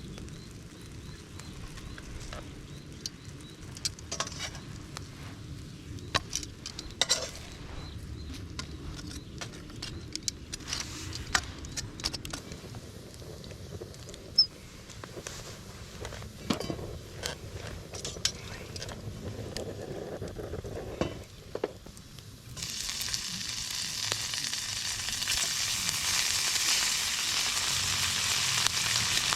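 Scattered clicks and crackles over a low rumble, then about 22 seconds in a loud sizzling starts suddenly and keeps going, like food frying in a hot pan.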